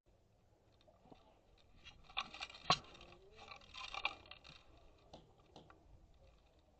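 Faint scuffing, crunching and scraping of movement close to the microphone, in two short clusters, with one sharp click about two and a half seconds in.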